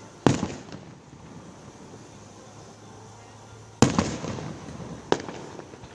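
Aerial fireworks bursting: three sharp booms, one just after the start and two more about a second apart near the end, each trailing off in a short echo.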